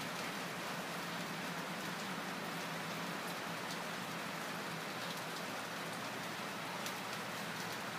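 Steady hiss of rain, with faint scattered ticks of drops and a low steady hum underneath.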